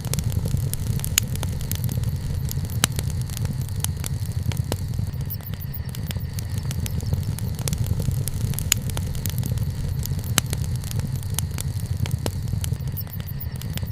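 Wood bonfire burning, with a steady low rumble and frequent irregular sharp crackles and pops from the burning wood, a few louder snaps among them.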